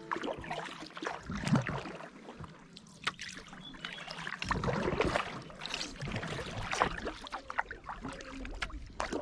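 Kayak paddle strokes splashing and dripping in the water, coming irregularly, with a low rumble joining about halfway through.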